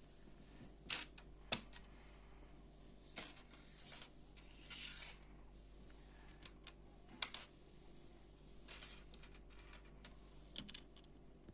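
Small plastic Lego pieces clicking and tapping as they are picked up and pressed together, a scattering of separate sharp clicks, with a short rustle about five seconds in.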